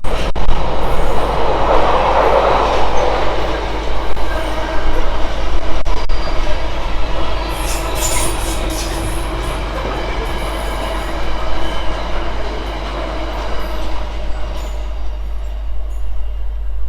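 Train running past on the main line, loud at first and then dying away as it moves off.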